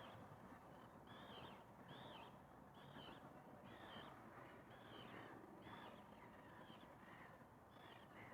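A bird calling again and again in short, arched, fairly high notes, about ten of them at a little more than one a second, faint over a soft steady background hiss.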